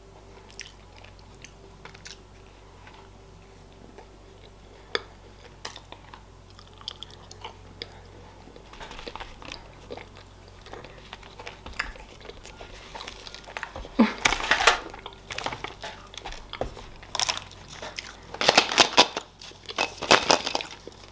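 Close-up eating sounds of Kinder chocolate-egg shell being bitten and chewed, with scattered small clicks at first and clusters of loud, crisp crunches in the second half.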